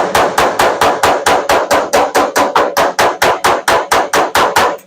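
Body hammer tapping fast on the steel sheet metal of a pickup bed, about five even strikes a second with a metallic ring after each, stopping just before the end. The rapid light blows are working down a high spot or ridge in the panel.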